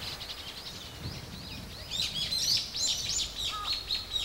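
Small birds chirping and singing in quick, high, repeated notes that grow thicker and louder about halfway through, over a low outdoor background.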